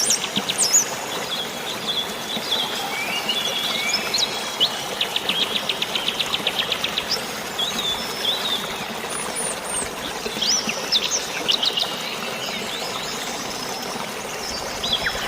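Birds chirping and calling over a steady wash of flowing water or rain: short whistled notes and trills, one a fast rattling trill of about nine notes a second midway.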